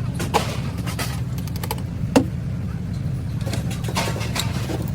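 A steady low engine rumble with a few sharp knocks or clicks over it, the loudest about two seconds in.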